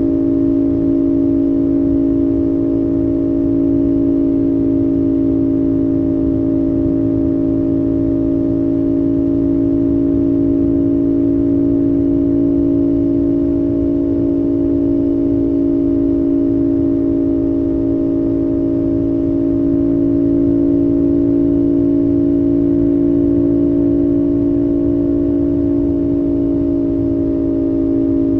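2025 CFMOTO 450SS's parallel-twin engine holding a steady cruising speed, a constant droning hum that barely changes pitch, with a rough low rumble beneath it.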